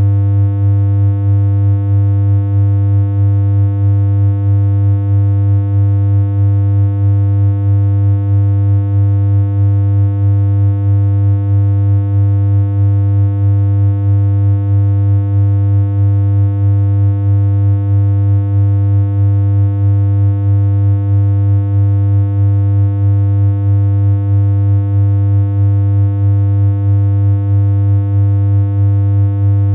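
Synthesized electronic hum: one unchanging low tone with a buzzy stack of overtones, held at a constant level with a slight regular wobble in loudness.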